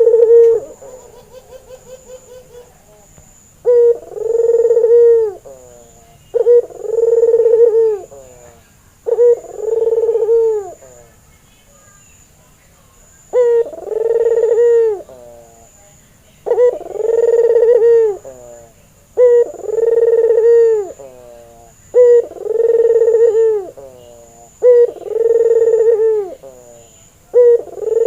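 A white Barbary dove (puter) coos over and over. Each coo is a clipped two-part call lasting about a second and a half, repeated roughly every three seconds, about ten times. Just after the start there is a quick rolling, rattling coo.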